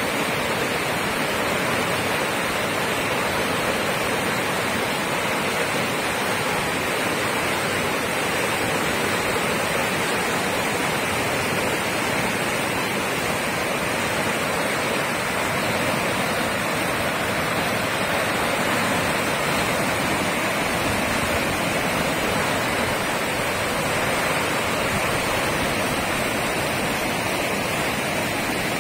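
Tidal current rushing through a narrow sea strait, churning into white-water rapids and standing waves: a steady rush of water that does not let up.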